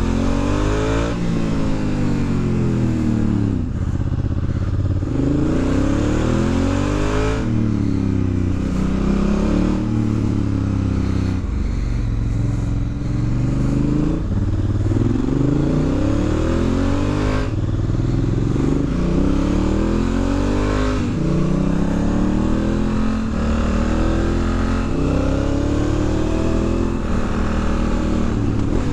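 2019 Honda Africa Twin's parallel-twin engine under hard riding, its pitch climbing as the throttle is opened and dropping back at each shift or roll-off, again and again.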